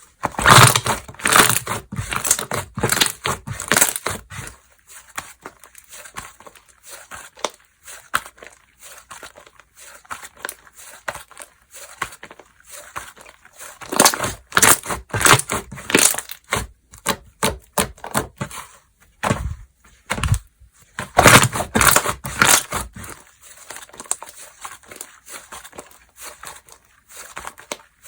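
Slime being squished, stretched and pressed by hand, giving off dense crackling and popping clicks in three louder bouts with quieter squishing between.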